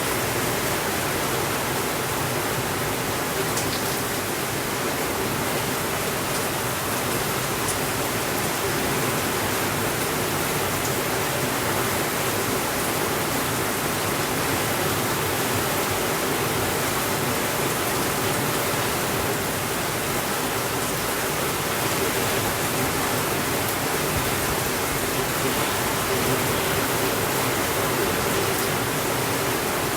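Steady rainfall, an even hiss that does not change in level, with a few faint ticks.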